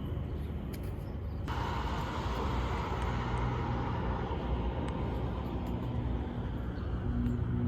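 Steady low rumble like a running vehicle, with a hiss that sets in suddenly about a second and a half in.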